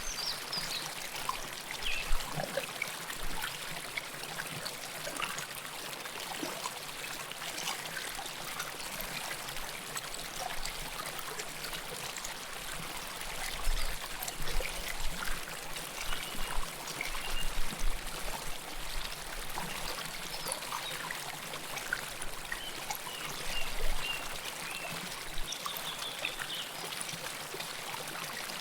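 River water flowing close to the microphone: a steady rush with bubbling and trickling, and louder splashing surges a few times.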